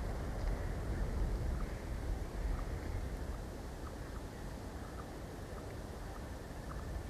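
Wind rumbling on an outdoor microphone, with faint short bird chips repeating about once a second over it.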